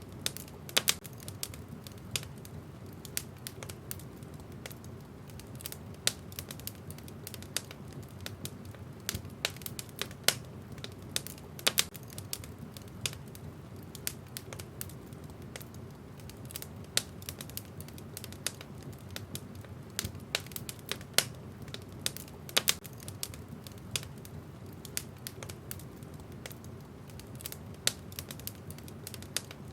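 Wood fire burning in a fireplace, logs crackling with many irregular sharp pops, some much louder than the rest, over a steady low rumble.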